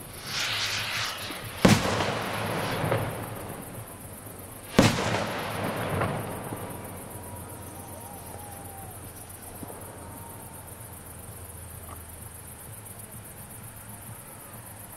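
Fireworks going off: a burst of crackling, then two loud bangs about three seconds apart, each followed by crackling as it fades. After that the display dies down to a low background.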